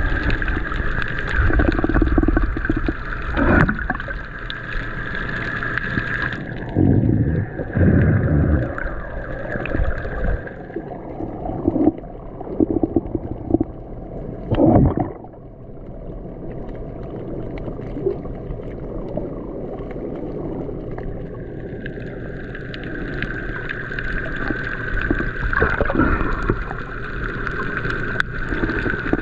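Boat underway, with water sloshing and gurgling against the hull in repeated surges. A steady high hum fades out about ten seconds in and comes back after about twenty.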